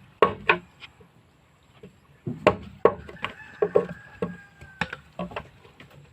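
Wood being struck by a hand tool: a dozen or so sharp knocks at irregular intervals, as in chopping or shaping timber.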